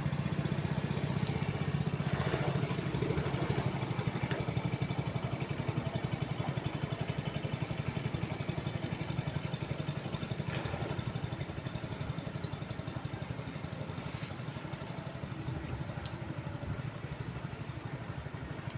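A small engine idling steadily with a fast, even pulse.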